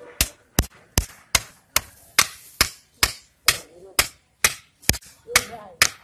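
Steady, evenly spaced hard blows of a hand tool, about two and a half a second.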